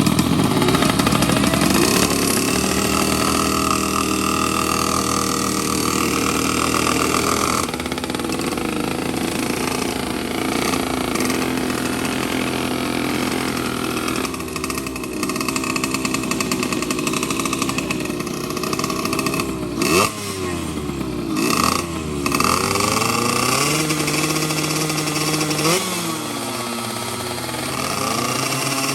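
Two-stroke underbone racing motorcycle engines running, with several revs that rise and fall in pitch in the second half.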